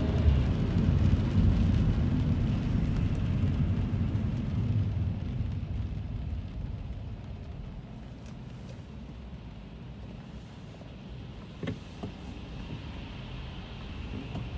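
Car cabin sound on a rainy drive: a low rumble of tyres and engine with a steady rain hiss. The rumble fades over the first several seconds. A sharp click comes about twelve seconds in.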